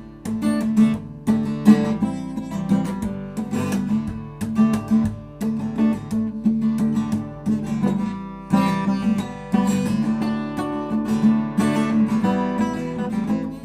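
Acoustic guitar being strummed, chord after chord in a steady rhythm.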